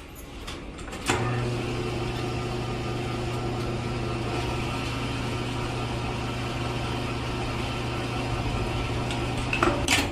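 A small motor running steadily with a constant hum, starting about a second in and cutting off near the end.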